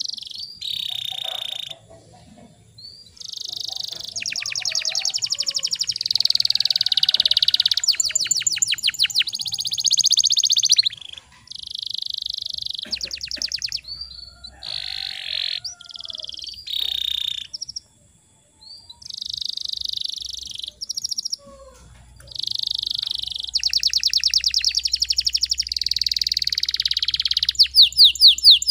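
Domestic canary singing: long high-pitched phrases of fast trills and rolling notes, broken by short pauses of a second or so.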